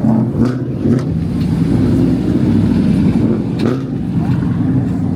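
A vehicle engine running loudly, a steady low engine note that wavers slightly in pitch, with a few brief clicks or knocks over it.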